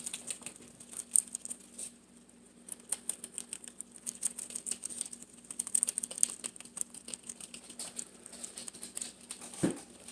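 Guinea pigs chewing and tearing banana leaves: a dense run of crisp crunching, crackling clicks. There is one brief low thump near the end.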